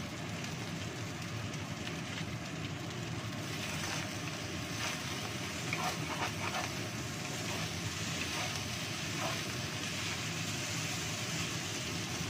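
Fried rice sizzling in a nonstick wok over a gas burner's steady rush, with a wooden spatula now and then scraping and tapping against the pan as the rice is turned.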